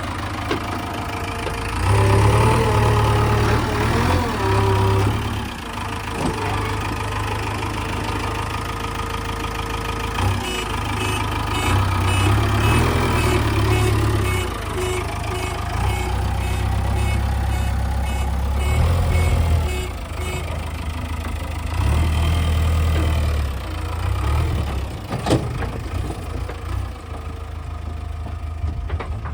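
JCB 3DX backhoe loader's diesel engine running while it works, its note rising and falling in spells of a few seconds as the load comes and goes.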